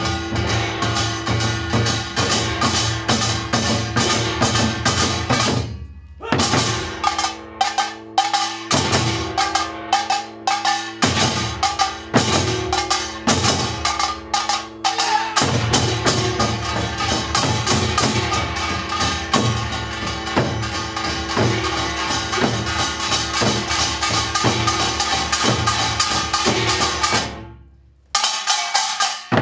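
Percussion-led music: rapid, dense strikes over a steady low drone. It drops out briefly about six seconds in, comes back as fewer, heavier hits with fast strikes between them, returns to the dense rhythm, and fades to a short gap near the end before the strikes start again.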